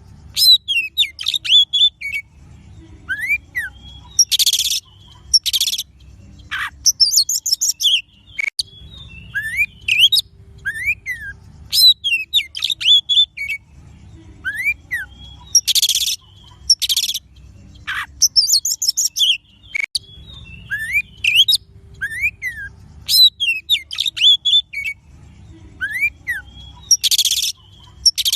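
Oriental magpie-robin (kacer) song used as a lure recording to set a kept bird singing: rising and falling whistles, rapid chirps and a few harsh raspy notes. The same phrase repeats about every eleven to twelve seconds, as a looped recording does, over a faint low hum.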